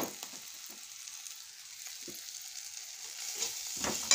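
Chopped onion, tomato and green chilli sizzling steadily in hot oil in a metal kadai. There is a sharp knock at the start, and from about three seconds in a spatula stirs, scraping and knocking against the pan, which rings briefly.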